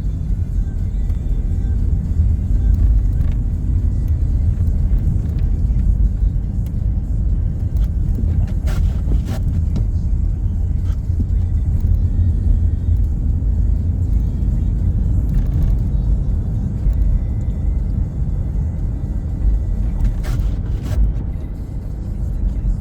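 A car driving, with a steady low rumble from the road and engine throughout and music playing along with it. A few faint clicks come through around the middle and near the end.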